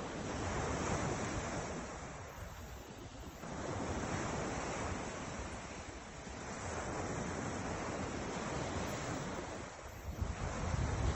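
Ocean surf washing in, swelling and fading roughly every three seconds, with wind buffeting the microphone near the end.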